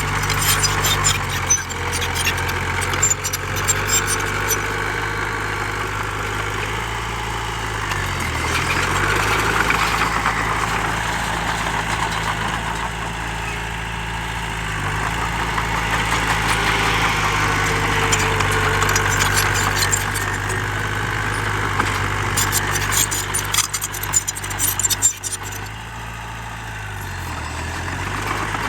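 Heavy earthmoving machinery's diesel engine running steadily, its pitch dropping briefly and recovering twice. Two spells of rapid metallic rattling and clicking come over it, one near the start and one near the end.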